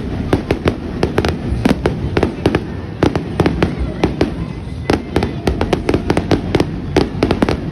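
Fireworks going off in a rapid, irregular string of cracks and bangs, several a second, over a steady low rumble.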